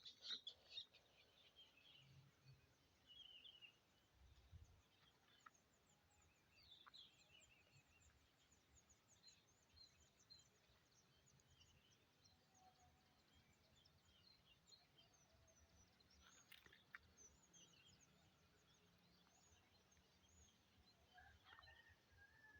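Faint birdsong: many short, high chirps and twitters scattered throughout, over a low background hiss.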